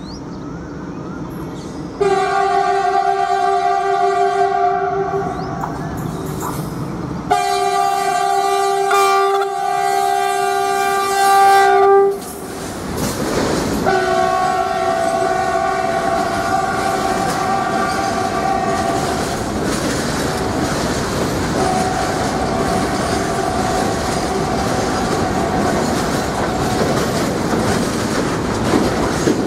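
Indian Railways WDG-4G diesel-electric freight locomotive sounding its horn in two long, loud blasts as it approaches and passes at speed. A long rake of covered goods wagons then rumbles past with a steady clickety-clack of wheels on the rails, while the horn sounds again more faintly twice as the locomotive draws away.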